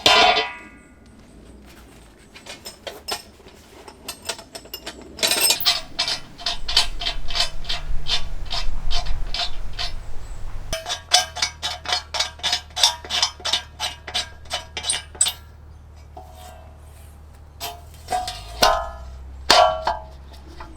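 Runs of quick, sharp knocks with a slight ring, several a second, lasting a few seconds at a time, over a steady low hum.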